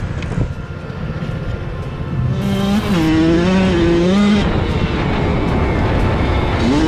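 Vehicle engine running, fairly quiet for the first two seconds, then louder from about two and a half seconds in, its pitch rising and dipping as it revs.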